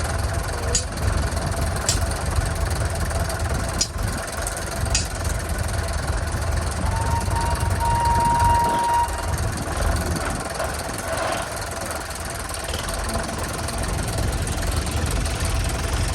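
An engine running steadily with a low rumble, with a few sharp clicks in the first five seconds and a short high tone held for about two seconds, about seven seconds in.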